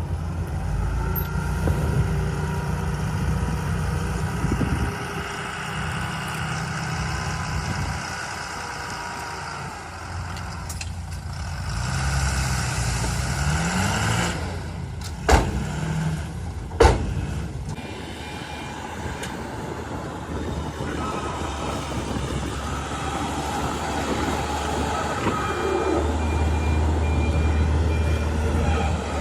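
Heavy diesel engine of earthmoving or truck machinery running steadily, its revs rising about twelve seconds in. Two sharp metallic knocks come about a second and a half apart near the middle.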